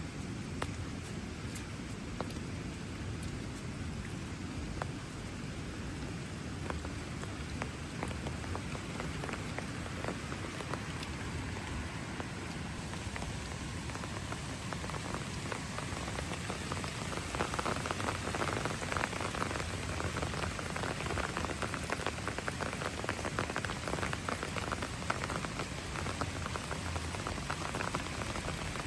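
Steady rain falling on hard surfaces, a constant hiss with many small drop patters. The patter gets denser and a little louder a bit past halfway.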